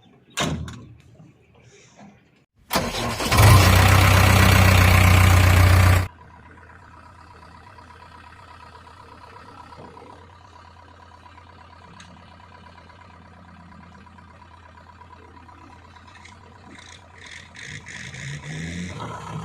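Diesel engine starting: a very loud burst of about three seconds as it fires, then a steady idle. Near the end it revs up.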